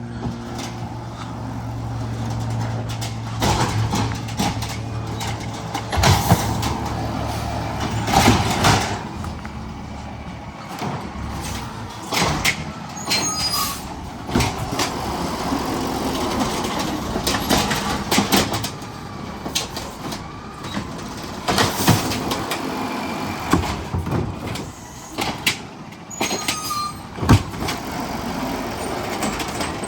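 Garbage truck at work. Its engine hums steadily at first, then comes a long run of clanks and bangs with a few short whines.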